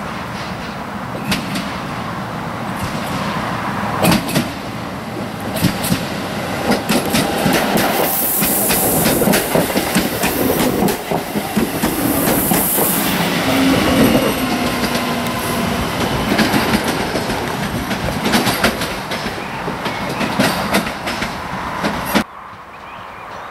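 Newag Impuls (36WEa) electric multiple unit rolling past close by: a steady rumble and hiss with many sharp wheel clacks over the rail joints. The sound drops abruptly to a much quieter level near the end.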